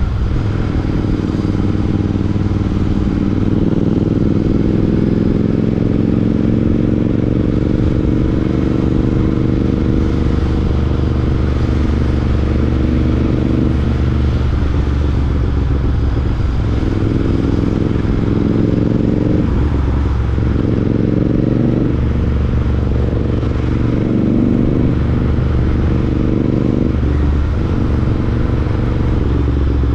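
Royal Enfield Interceptor 650's parallel-twin engine running through a Chris Michael aftermarket exhaust while riding. It holds a steady note, then dips and picks up again several times in the second half.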